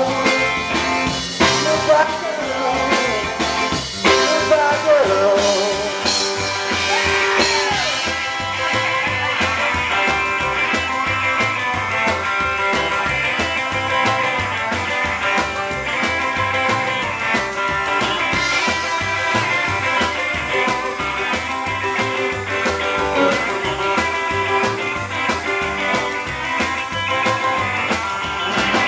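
Live rock band playing an instrumental break with a steady beat: electric guitar, piano, bass and drums.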